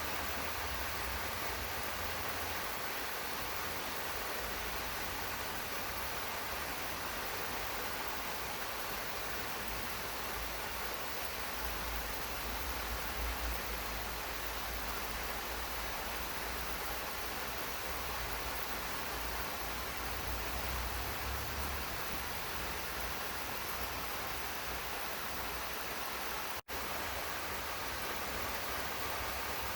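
Steady rain falling in a garden: an even hiss with a low rumble underneath. It cuts out for an instant near the end.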